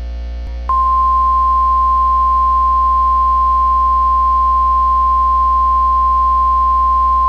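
NOAA Weather Radio warning alarm tone: a single steady 1050 Hz tone that comes on about a second in, over a low hum. It signals that a weather warning message follows.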